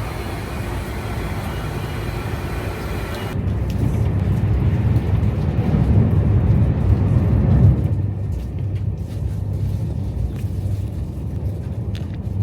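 Steady low rumble of a moving vehicle, with an abrupt change about three seconds in and louder in the middle.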